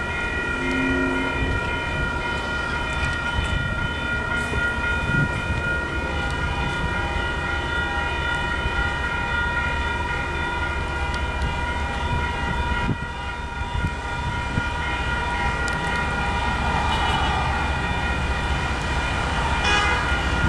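MBTA commuter train led by an MPI HSP46 diesel locomotive approaching a grade crossing. A steady low rumble runs under a steady high ringing made of several tones together, with a brief dip about two-thirds of the way through.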